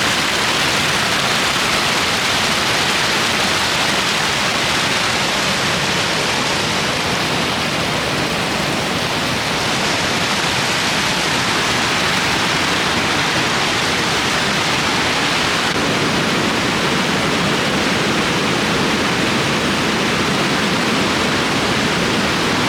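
Waterfall: the steady, loud rush of falling water, even and unbroken.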